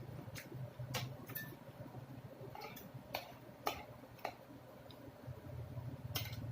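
Close-up eating sounds: irregular sharp mouth clicks and smacks while chewing, about ten over a few seconds, over a low murmur.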